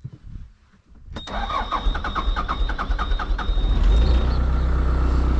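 Diesel engine cranked over by its starter, a rhythmic chugging of about five strokes a second with a steady starter whine, after a shot of ether. It catches about four seconds in and settles into a steady idle; it is hard-starting, which the owner suspects may be a bad injector.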